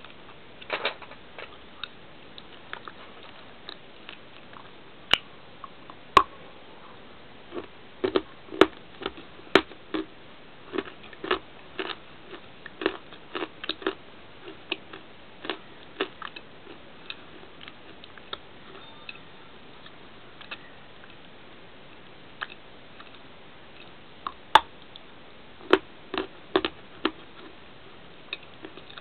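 Crunching as a crunchy bar is bitten and chewed close to the microphone: irregular sharp cracks and crackles, coming in clusters with short pauses between.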